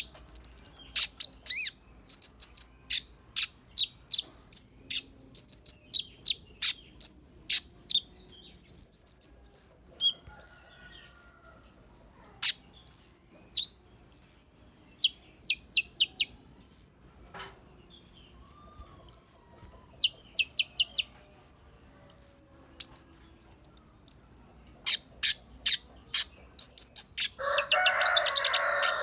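Konin songbird singing a fast, high chirping song full of imitated white-eye (pleci) phrases: rapid runs of short notes broken by repeated upward-hooked whistles, with a harsher, lower call near the end.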